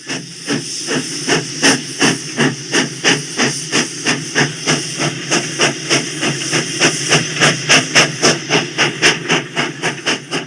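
Narrow-gauge steam locomotive working, its exhaust chuffing at an even beat of about three chuffs a second over a steady steam hiss.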